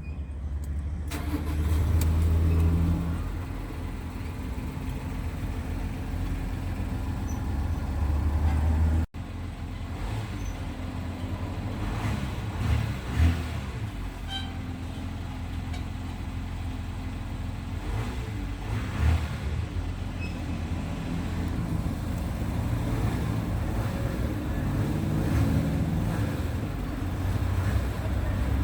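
Volkswagen Amarok diesel engine running at a low, steady idle, with a few brief swells in engine speed from throttle blips. About nine seconds in the sound cuts out for an instant and resumes.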